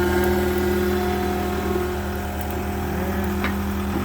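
Engine of a post-hole auger running steadily at low speed.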